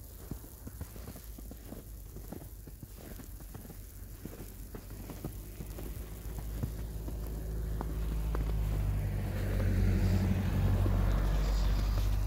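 Motor vehicle engine drone that grows louder over the second half, as if approaching, and is loudest near the end. In the first half there are small crackling ticks over a low hum.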